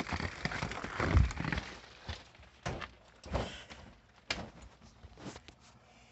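Footsteps and dull thumps and knocks, about a second apart and fading, as people and pets go back indoors, while the patter of falling snow pellets dies away.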